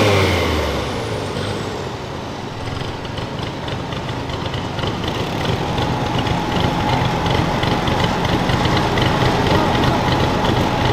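A pulling garden tractor's engine drops off high revs in the first second, its pitch falling, then keeps running at low speed near idle with a light regular ticking, growing slightly louder toward the end.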